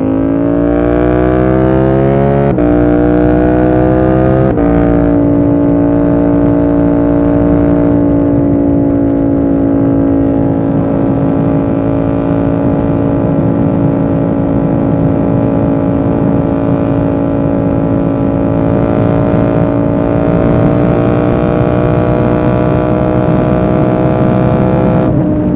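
KTM 890 Duke R's parallel-twin engine accelerating hard with two quick upshifts in the first five seconds, then pulling at a nearly steady speed with a slight rise in revs before easing off near the end.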